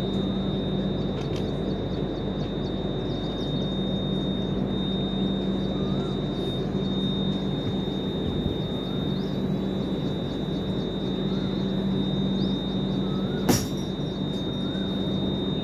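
Steady hum of a halted passenger train, with a continuous high-pitched whine over it and one sharp click about thirteen seconds in.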